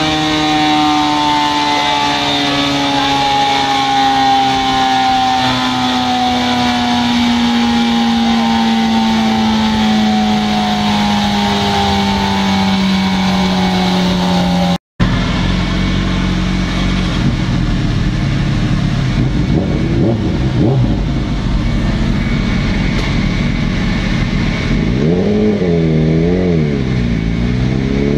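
Motorcycle engine running on a dynamometer. Its note falls steadily in pitch for about fifteen seconds as the revs wind down, then breaks off for an instant. After that it runs lower and rougher, with the revs going up and down a few times near the end.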